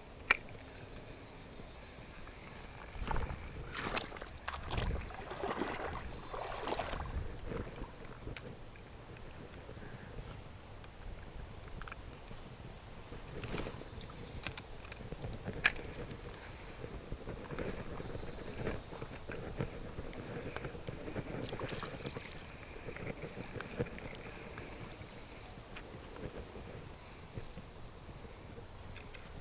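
Riverside ambience with a steady high insect drone. Water sloshing and handling noises come in bursts, and a few sharp clicks are heard.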